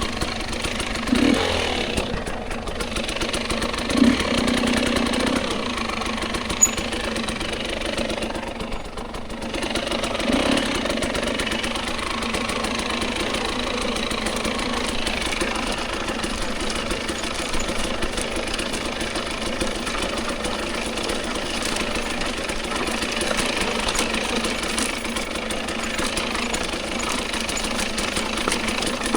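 Dirt bike engine running steadily as it rides a trail, with a few sharp knocks about one, four and seven seconds in and a brief easing of the engine around nine seconds.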